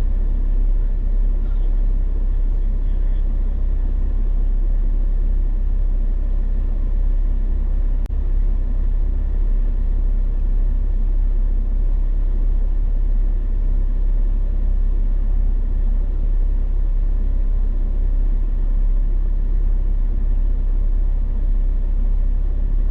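Vehicle engine running with a steady low rumble, with one sharp click about eight seconds in.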